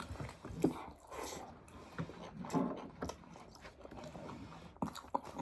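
People chewing and biting food in a mukbang, with scattered small clicks and soft mouth sounds.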